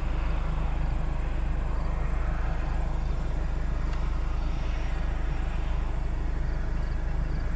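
Steady road-vehicle noise: a constant low rumble with an even hiss over it, without a clear rise or fall.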